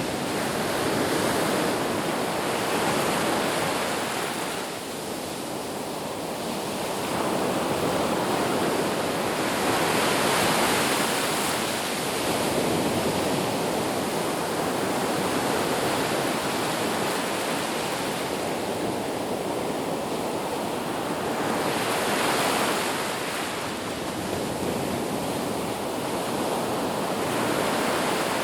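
Ocean waves breaking on a beach, a steady wash of surf that swells and eases every few seconds.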